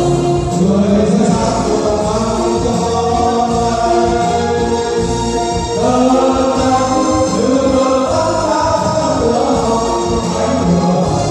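Music: a choir singing held notes over instrumental accompaniment, with a new phrase starting about halfway through.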